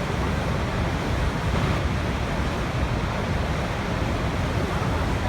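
Waterfall: a steady rush of falling water with a heavy low rumble, unchanging throughout.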